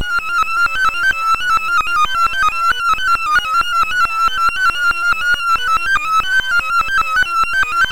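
Sorting-algorithm sonification: a rapid, unbroken stream of short synthesized beeps, one for each array access, whose pitches jitter up and down within a narrow band. The loudness pulses about five times a second.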